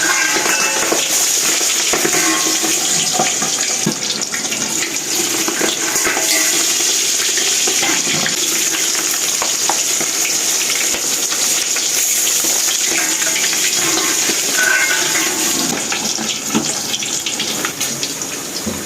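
Pork belly deep-frying in hot oil in a kawali (wok): a steady sizzle with scattered sharp pops of spattering oil.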